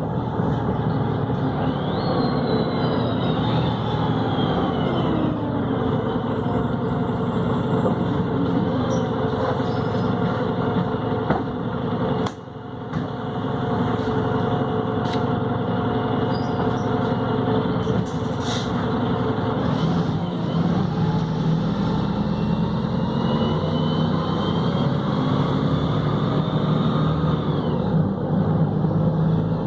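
Volvo B7RLE bus running, its engine and Voith automatic gearbox heard together. A high whine falls as the bus slows a couple of seconds in, and rises again as it picks up speed near the end.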